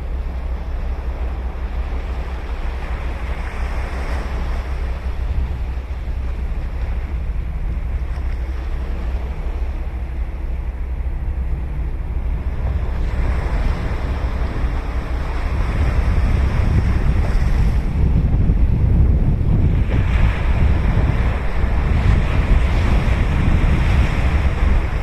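Ocean surf breaking and washing up the shore, with wind buffeting the microphone as a steady low rumble. The surf swells about three seconds in, again from about thirteen seconds, and most strongly in the last few seconds.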